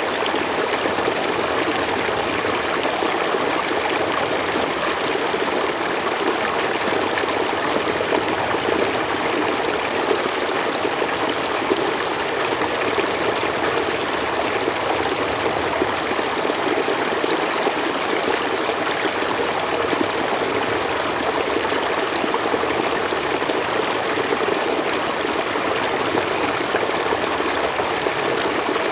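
River water flowing steadily over rocks, a continuous, even rush.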